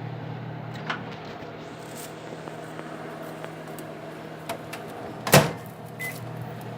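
Microwave oven stopped and its door opened with a click about a second in, the running hum dropping away. The door then shuts with a sharp knock about five seconds in, followed by a short beep and the hum of the oven running again.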